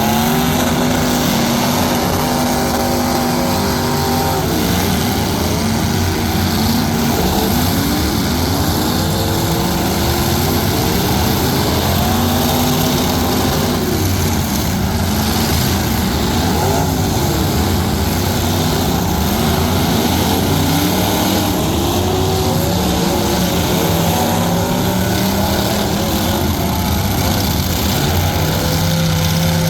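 Several truck engines running and revving, their pitch repeatedly climbing and falling over a steady rumble.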